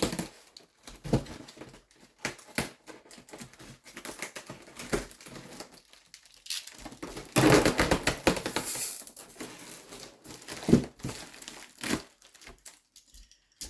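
Cardboard box and plastic packaging being handled: irregular rustling, crinkling and small knocks. The crinkling grows louder and denser for about two seconds past the middle.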